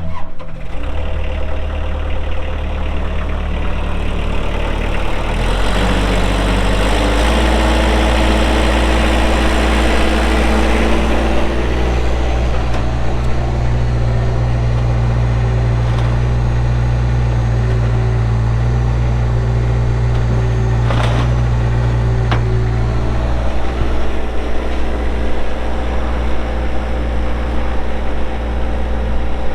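Kubota diesel engine of a Thomas T135 skid steer running just after start-up, speeding up about six seconds in and then running steadily at the higher speed. Two short sharp knocks come about two-thirds of the way through.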